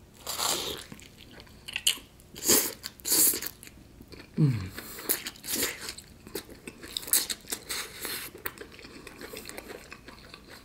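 Biting into and chewing a crispy, potato-starch-coated fried chicken drumstick: loud crunches of the crust in the first three seconds or so, then softer wet chewing. A short low falling hum comes about four seconds in.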